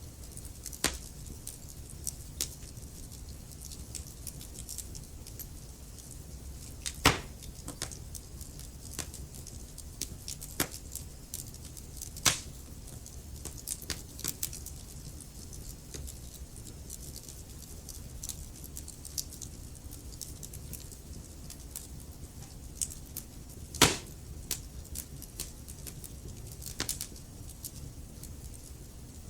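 Wood fire crackling in a fireplace: a steady low rumble of flames under irregular sharp pops and snaps, three of them much louder, at about 7, 12 and 24 seconds in.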